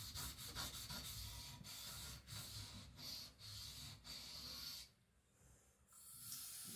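Faint rubbing of a 75Cr1 steel knife blade stroked flat across a Naniwa Professional 400-grit whetstone, in a run of repeated strokes. The strokes stop briefly about five seconds in, then the rubbing starts again.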